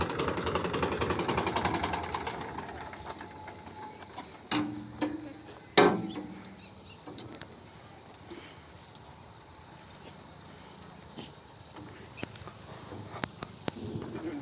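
Insects trilling steadily at a high pitch, with a few sharp knocks about four and a half to six seconds in.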